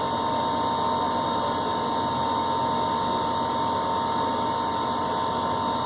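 Steady machinery noise with a constant high whine running through it.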